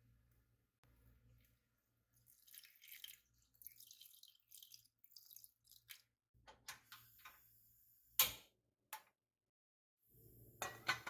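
Kitchen handling sounds during food preparation: a few seconds of light rustling or crackling, then a series of sharp clicks and knocks of dishes or utensils, the loudest about eight seconds in and another cluster near the end.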